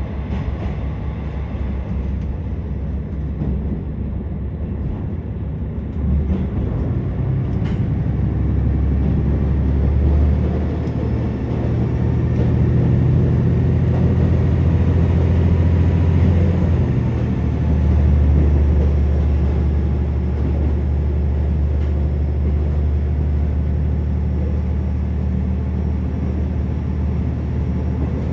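Interior of a KiHa 47 diesel railcar under way: the steady low drone of its underfloor diesel engine with the rumble of the wheels on the track, growing louder about six seconds in.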